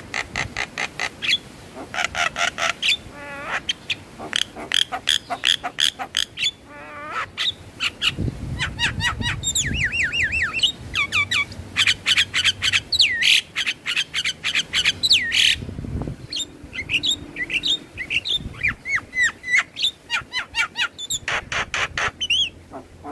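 Javan myna (jalak kebo) calling: a fast chatter of sharp clicking notes mixed with whistles that swoop up and down and short trills.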